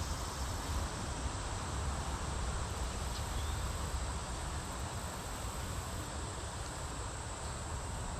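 Steady outdoor ambience: insects trilling in a constant high band over a low, continuous rumble.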